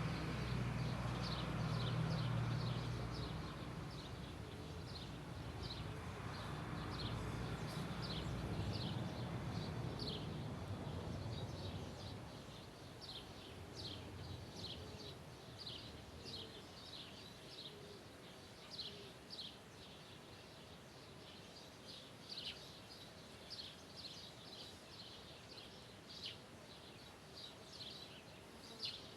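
A bird repeating short, high, falling chirps about once a second. A low rumble, like a distant engine, fades out about halfway through.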